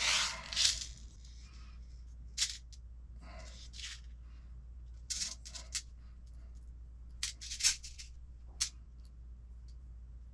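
Small screws and kit hardware being sorted through by hand: scattered light clicks and short rustles, a few seconds apart, over a steady low hum.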